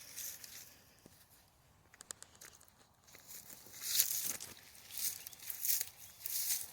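Footsteps crunching on a rocky trail, starting about four seconds in at roughly one step a second, after a few seconds of faint scattered clicks.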